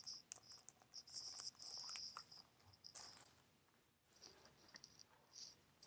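Near silence, with faint scattered high-pitched clicks and ticks.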